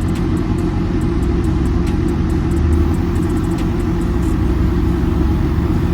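Semi-truck diesel engine running steadily with a low drone.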